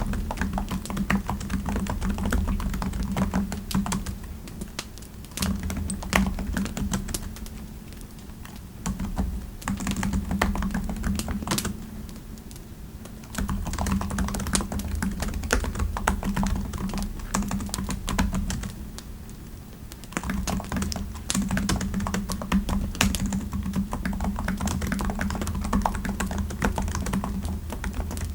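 Typing on a computer keyboard: runs of rapid keystrokes with a low thud under them, broken by short pauses about a third of the way in, near the middle, and about two-thirds through.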